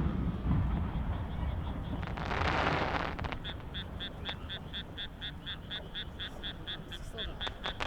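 Fireworks rumble dying away, a brief crackling hiss a couple of seconds in, then a frog calling in a rapid, even run of croaks, about five a second, from about three seconds in.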